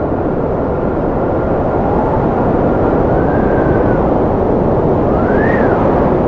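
Strong wind blowing in a steady rush, with a thin whistling tone above it that rises and falls, swelling to its highest pitch about five and a half seconds in.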